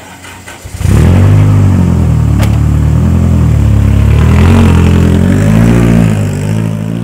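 An old sedan's engine bursts in loud about a second in and is revved up and down several times, then fades near the end as the car pulls away.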